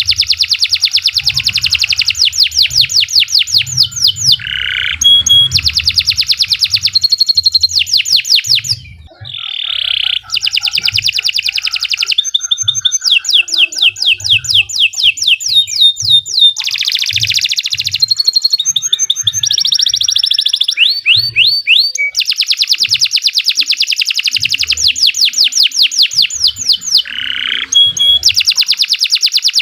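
Domestic canary singing a long song made of fast trills: rolling runs of rapidly repeated high notes, one phrase after another, with a brief break about nine seconds in.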